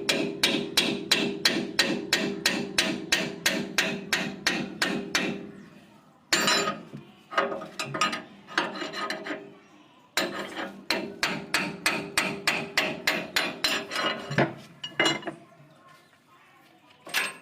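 Hammer striking the steel of a combine harvester's cutter bar in fast runs of about three to four blows a second, the metal ringing with each blow. There are three runs with short pauses between them and a single blow near the end. This is the work of knocking loose the stuck cutter knife sections.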